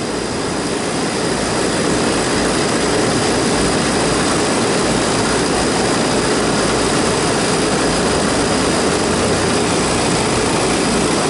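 Refrigerant recovery machine running steadily as it pulls the refrigerant out of the air conditioner, a loud even drone with a faint steady high whine on top. It builds a little over the first couple of seconds and then holds.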